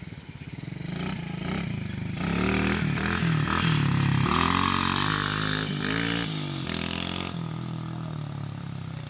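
Small pit bike engine revving as the bike rides by, its pitch climbing and dropping several times. It is loudest in the middle, then eases back to a steadier, quieter note near the end.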